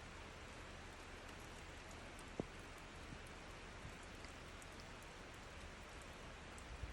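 Rain falling steadily: a faint, even hiss with scattered drip ticks, and a single low knock about two and a half seconds in.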